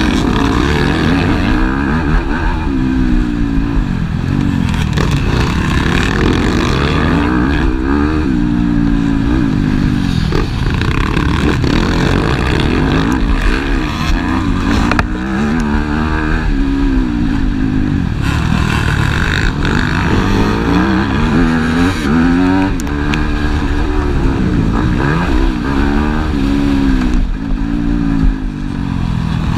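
Motocross bikes' engines revving hard, the pitch climbing and dropping over and over with throttle and gear changes as they race.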